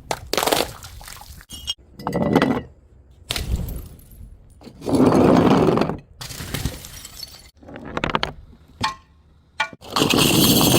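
Glass bottles shattering one after another, several separate crashes, each with a short tinkle of breaking glass. The longest and loudest crash comes about five seconds in.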